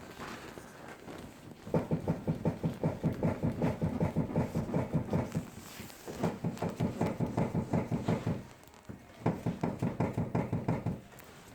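Mercedes-Benz W220 S-Class suspension struts knocking in three runs of rapid, even knocks, about five a second: the sign of worn struts.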